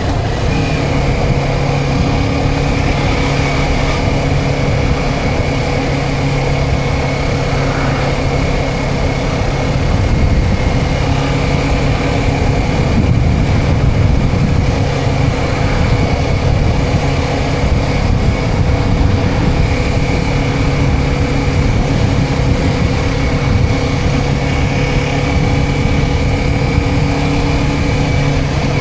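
Motorcycle engine running at a steady cruising speed, its note holding level, under a constant rush of wind and road noise.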